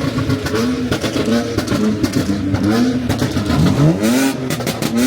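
Car engines revving in repeated blips, the pitch rising and falling over and over, with a quick run of exhaust pops and crackles about four seconds in.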